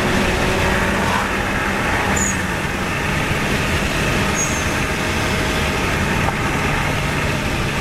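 Subaru Legacy Blitzen's turbocharged flat-four engine running steadily at cruise, with tyre and road noise heard from inside the cabin. A few faint short high chirps come through about two and four and a half seconds in.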